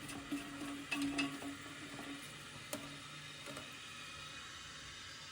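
Toilet tank fill valve running with a faint steady hiss of water, with a low hum that fades about two seconds in and a few light clicks.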